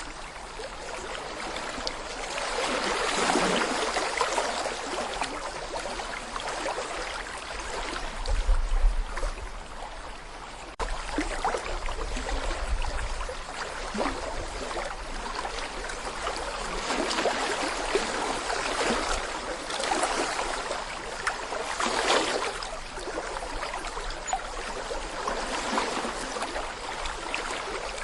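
Babbling brook: shallow water running over stones, a continuous splashing and gurgling that swells and eases every few seconds. A low rumble comes in about a third of the way through.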